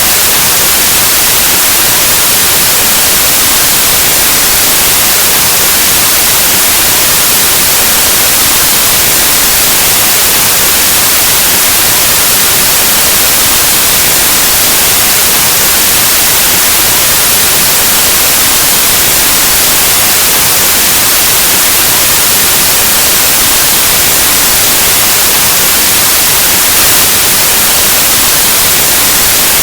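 Loud, steady white noise: an even hiss of static like an untuned analog television or radio, unchanging throughout.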